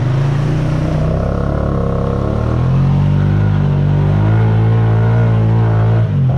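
Honda Rancher 420 ATV's single-cylinder engine revving up over the first few seconds and held high, dipping briefly about six seconds in. The four-wheeler is bottomed out in muddy ruts and not getting free.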